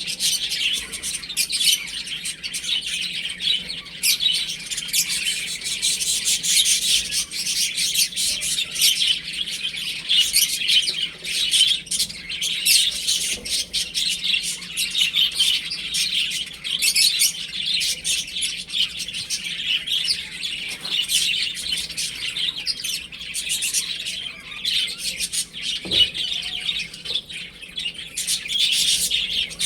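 A flock of baby chicks peeping continuously in a dense chorus of overlapping high chirps, with one short knock near the end.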